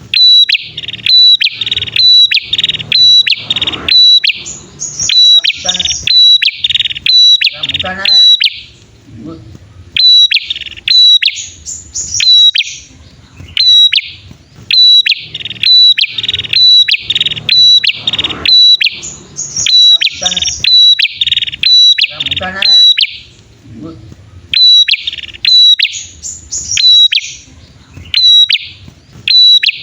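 Prenjak songbirds, a male and a female, calling: loud sharp high chips at about two a second, broken by buzzier phrases that climb in pitch, the whole sequence repeating about every ten seconds as a looped lure call.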